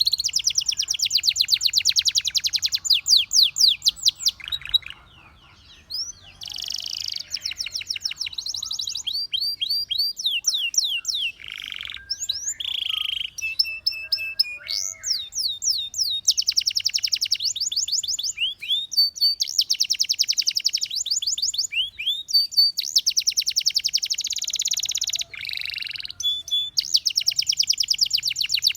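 Domestic canary singing in fast trills of rapidly repeated notes, switching from one rolling phrase to the next every second or two, with a brief pause about five seconds in.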